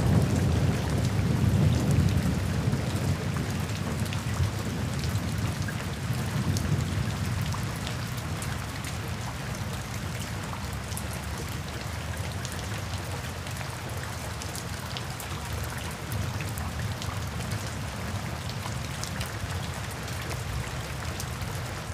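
Rain sound effect: steady rainfall hissing and pattering, with a deep thunder rumble that is loudest at the start and dies away over the first several seconds.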